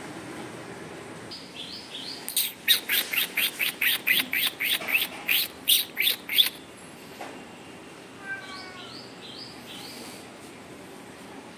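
A bird calling: a rapid run of loud, sharp chirps, each dropping in pitch, about four a second for about four seconds, with softer, higher chirps just before it and again a few seconds later.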